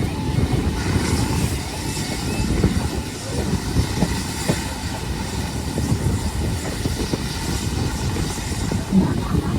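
Train running along the track: a steady low rumble of wheels on rail with irregular knocks and clatter.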